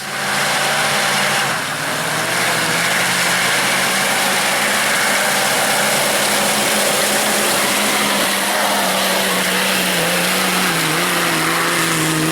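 Off-road 4x4's engine running loud at high, fairly steady revs, with a dense rushing noise over it.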